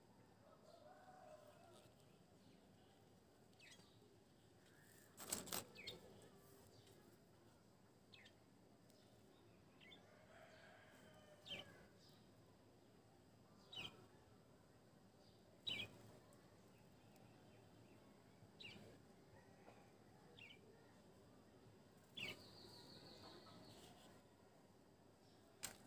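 Near-silent room tone with a dozen or so short, high bird chirps scattered through it, and a sharper click-like knock about five seconds in.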